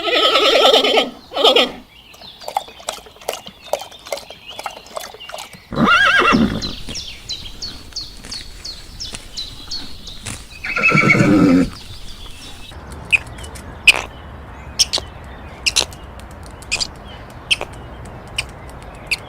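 A large farm animal calling loudly four times, each cry under about a second long, one falling in pitch, with short sharp clicks or taps scattered in between.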